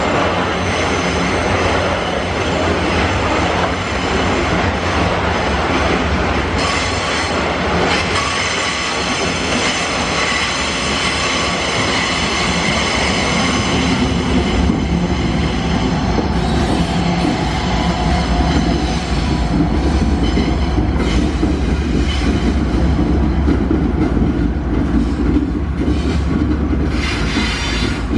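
A heavily loaded iron-ore train's wagons rolling past, a continuous heavy rumble with steel wheels squealing on the rails and some clacking. The deep rumble grows stronger about halfway through.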